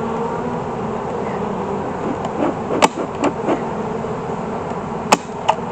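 Honeybee colony buzzing steadily around an open hive. About five sharp knocks and clicks from wooden hive frames being handled and set into the box, the loudest a little past five seconds in.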